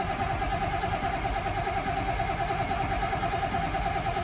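Ford IDI diesel truck engine cranking over on the starter in a cold-start attempt, a steady even churn without catching.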